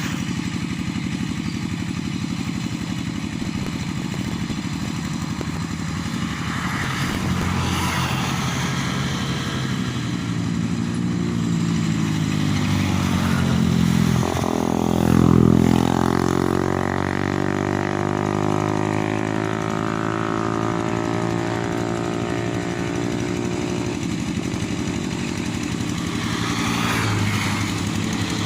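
An engine running steadily throughout, growing louder about halfway through as its pitch sweeps, as if it passes close by.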